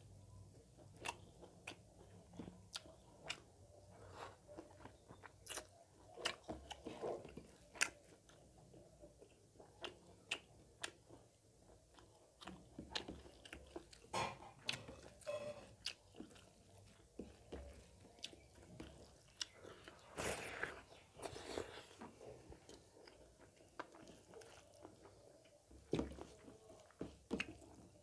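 Close-miked chewing of pork and rice, with wet lip-smacking and many sharp, irregular mouth clicks.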